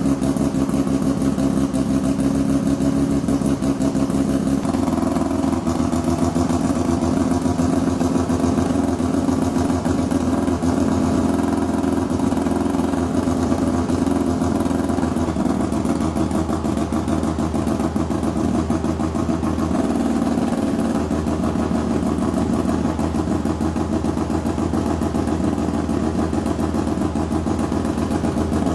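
A 1981 Mazda RX-7 FB's two-rotor Wankel rotary engine running steadily through a big stainless-steel exhaust, with the choppy rotary 'brap' of its exhaust pulses. Its note shifts slightly about five seconds in.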